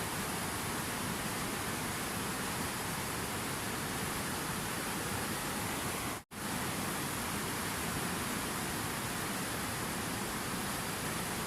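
Steady rushing water, an even hiss with no changes. It cuts out completely for a split second about six seconds in, then resumes.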